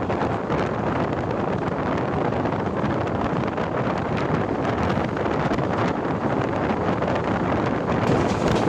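LHB passenger coach running at speed as the train picks up pace: a steady roar of wheels on rail and rushing air, with wind buffeting the microphone.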